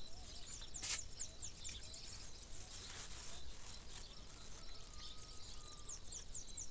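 Small birds chirping: many short, high, quick calls repeating, over faint outdoor background noise.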